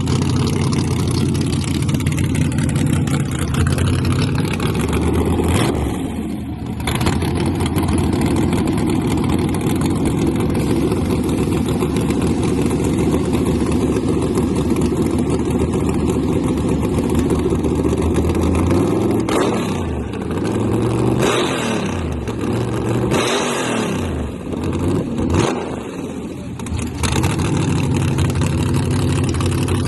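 V8 drag-race truck engines running loud. The throttle drops off about six seconds in, and the second half brings a string of sharp breaks and pitch swoops as the engine note changes.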